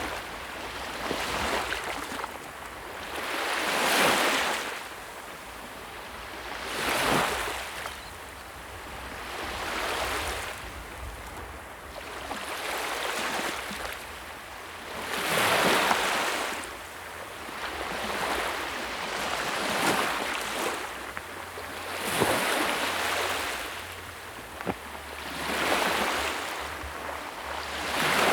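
Sea waves breaking and washing in. The surf noise swells and falls away about every three to four seconds.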